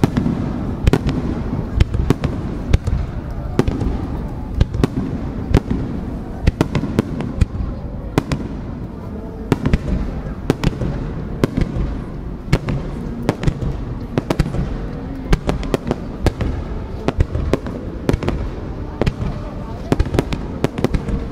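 Aerial firework shells launching and bursting close overhead: a rapid, irregular series of sharp bangs over a continuous low rumble.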